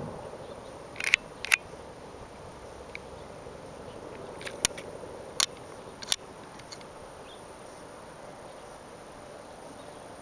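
Handling noise from a handheld camera: a few short, sharp clicks scattered over several seconds, over a faint steady background hum.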